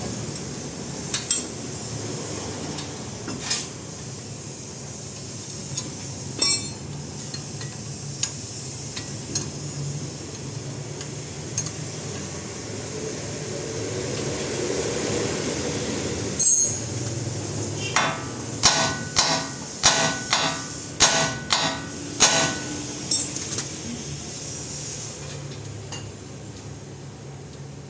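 Hammer striking metal: scattered single knocks, then a quick run of about ten ringing blows around two-thirds of the way through.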